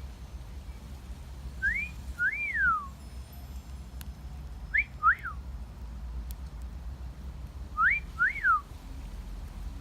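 Three wolf whistles, each two notes: a rising note, then one that rises and falls. The middle one is quicker and shorter than the other two.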